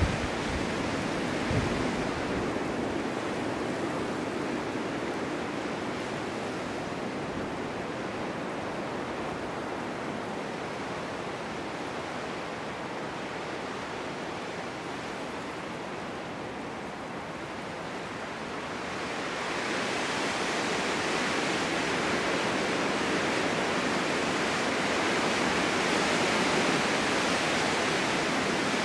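Snowstorm wind blowing steadily as a broad rushing noise, with a few low buffets near the start, easing a little in the middle and building again into a stronger, brighter gust about two-thirds of the way through.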